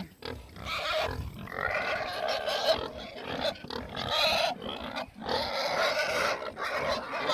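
Several pigs squealing and grunting in a run of loud, rough calls with short breaks between them, the noise of hungry pigs at feeding time.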